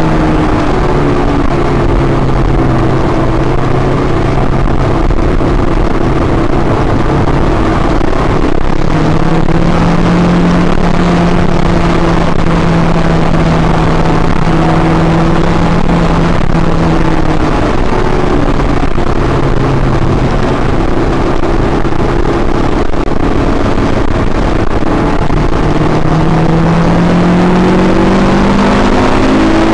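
Honda S2000's four-cylinder engine heard from inside the cabin while lapping a wet track. The engine note steps down and back up several times and climbs steadily near the end, over constant road and tyre noise.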